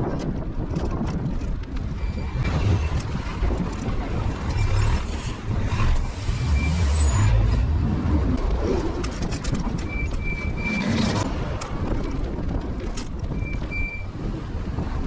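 Street traffic noise with wind buffeting the microphone in a low, fluttering rumble. Short high beeps sound a few times in the second half.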